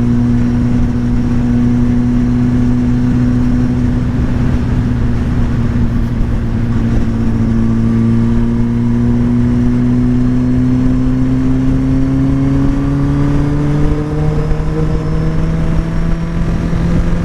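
Motorcycle engine running steadily under way, its pitch holding level for the first ten seconds or so and then slowly rising as the bike picks up speed, over a constant rush of wind noise.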